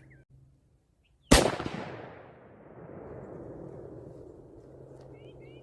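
A single rifle shot from a .30-06 Mauser 98 fires about a second in. The sharp crack is followed by a long rolling echo that fades away over the next few seconds.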